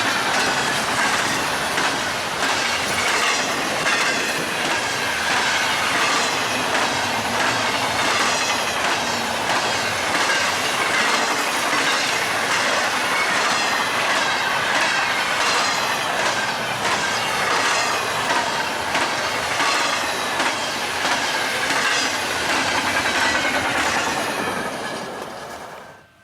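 Freight train cars rushing past at speed, steel wheels clicking over the rail joints with a high wheel squeal. The sound drops away sharply near the end.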